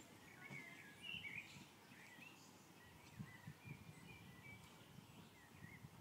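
Near silence with small birds chirping faintly, and a few faint low thuds of a cantering horse's hooves on the arena surface in the second half.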